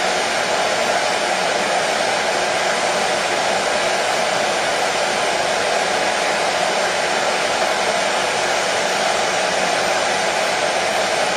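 Hair dryer running steadily, a continuous airy rush with an even hum and no change in speed.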